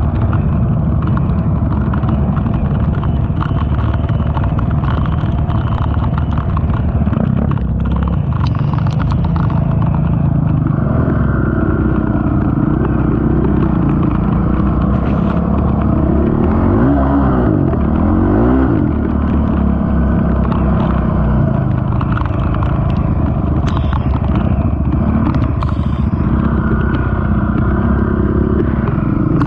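Honda TRX450 ATV's single-cylinder four-stroke engine running steadily on the move, its pitch rising and falling with the throttle, loudest in its revving about two-thirds of the way through. Occasional knocks and rattles come through over the engine.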